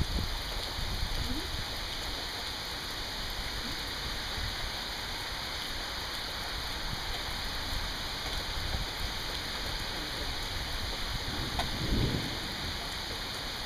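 Steady rain falling, with a brief low rumble near the end.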